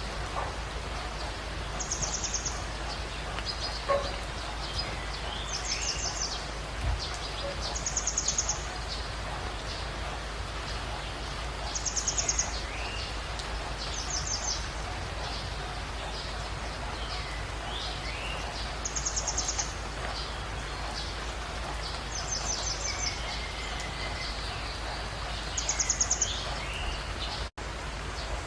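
Wild birds calling over a steady background hiss: one bird repeats a short, high, rapid trill every two to four seconds, while others give shorter falling chirps. The sound cuts out for an instant near the end.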